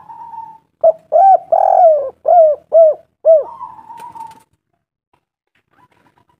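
Spotted dove (tekukur) cooing: a quick run of about six loud, arching coos that rise and fall in pitch, lasting about two and a half seconds.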